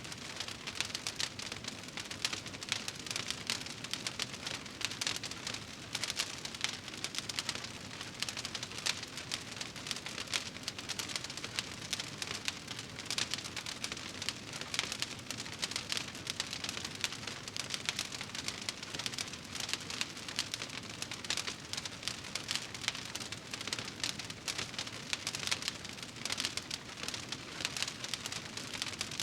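Wood fire crackling in a fireplace: a steady hiss of dense, quick little pops and snaps.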